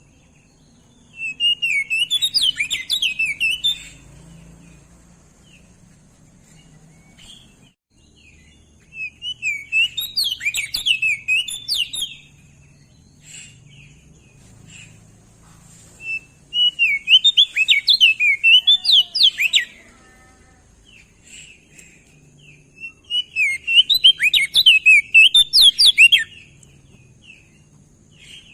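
Crested white-eye (opior jambul) singing: four bursts of rapid, warbling song, each about three seconds long and several seconds apart.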